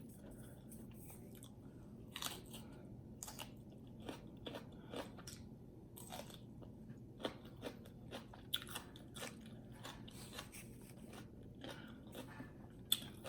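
Close-miked chewing and crunching of food: irregular crisp bites and wet mouth clicks, a few every second, over faint room hum.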